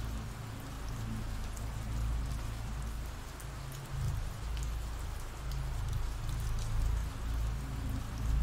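Ambient rain recording: steady rain falling as an even hiss with scattered drop ticks, over a deep low rumble.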